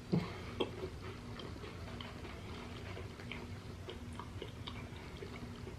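Jammie Dodgers shortbread biscuits being bitten and chewed: a louder bite just after the start, then scattered small crunching clicks.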